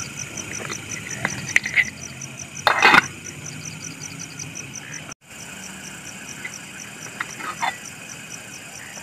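Night chorus of a calling frog or insect: a high chirp repeating about three times a second over a low steady hum, with one brief loud clatter about three seconds in and a few small clicks later.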